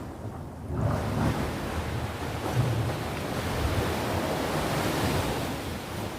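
Sea waves washing onto the shore: the surf swells up about a second in and its hiss builds to a peak near the end before easing.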